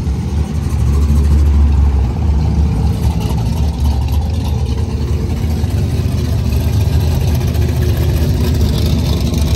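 Engines of hot rods and muscle cars rumbling as they drive slowly past one after another, a deep steady rumble that is loudest about one to two seconds in.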